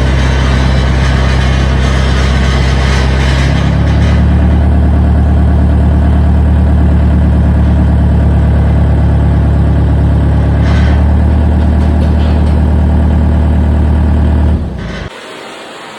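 A machine running with a loud, steady, deep hum that shifts slightly about three and a half seconds in and cuts off suddenly about fifteen seconds in.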